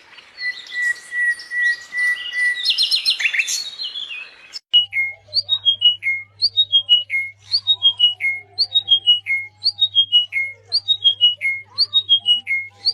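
Small songbirds chirping, with one bird holding a steady whistled note. After an abrupt cut, a bird sings a short phrase of about five quick notes stepping down in pitch, repeating it over and over about one and a half times a second, over a steady low hum.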